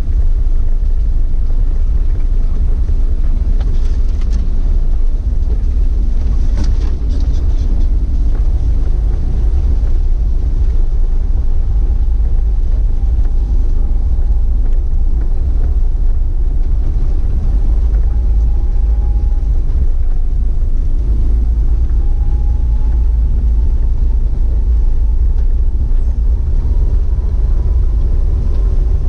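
Waterfall roaring: a loud, steady low rumble of falling water that does not let up.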